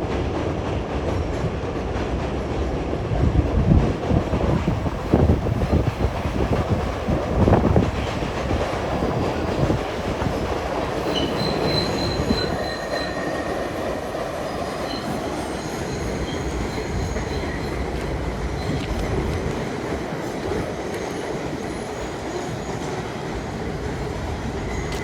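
New York City Subway 7 train passing: a steady run of train noise, louder in the first third, with high wheel squeals near the middle.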